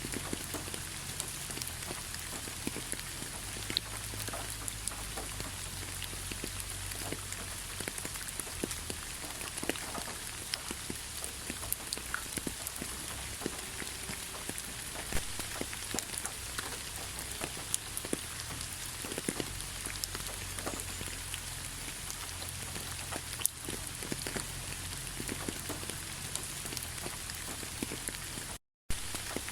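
Steady rainfall with many individual raindrops landing as sharp ticks over an even hiss. Near the end the sound cuts out completely for a moment, then resumes.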